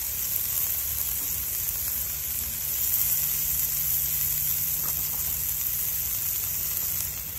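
Broccoli, mushrooms and onions frying in coconut oil and butter in a hot cast iron skillet over campfire coals, a steady high sizzling hiss.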